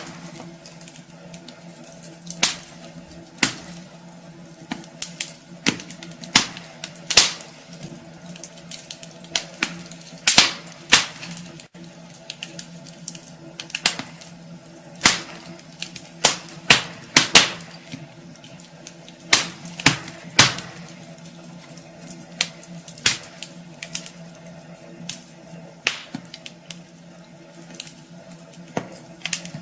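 Wood fire crackling in a fireplace: irregular sharp pops and snaps, at times several close together, over a low steady hum.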